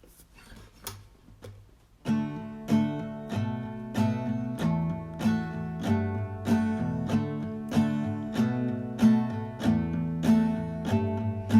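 Acoustic guitar in drop-D tuning (D A D G B E) with a capo at the second fret, playing an instrumental intro. After a couple of seconds of faint taps, the guitar comes in about two seconds in with strummed chords on a steady beat.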